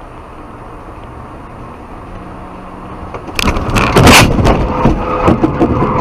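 Steady road and engine noise from a moving car, then about three and a half seconds in a sudden loud crash: a run of impacts, cracks and scraping from a car collision, loudest just after it starts.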